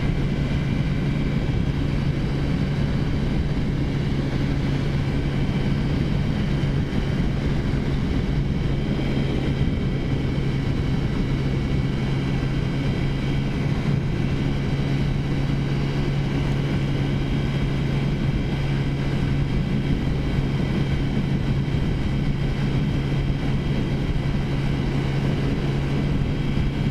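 Taotao scooter's big-bore 50cc four-stroke engine running at a steady cruising speed, its pitch holding level, with wind rumble on the microphone.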